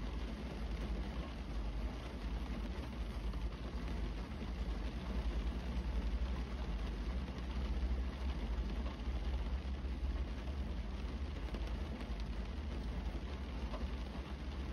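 Steady rain falling on a parked car, heard from inside the cabin, with a deep, steady rumble underneath.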